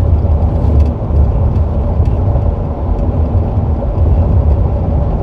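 Car driving at low speed, heard from inside: a steady low rumble of engine and road noise.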